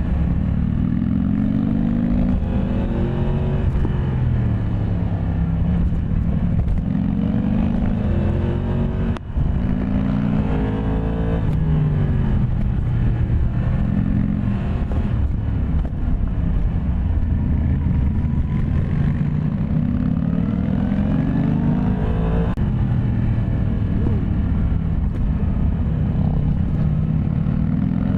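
Yamaha MT-10 SP's crossplane inline-four engine under way, its pitch climbing again and again under acceleration and falling away between pulls, with a brief break in the sound about nine seconds in.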